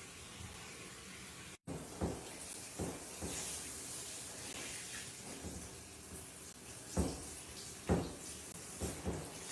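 A few soft thumps over a faint hiss.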